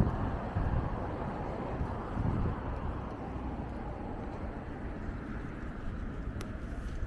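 City street ambience: a steady low rumble of traffic mixed with wind on the microphone, with one faint click near the end.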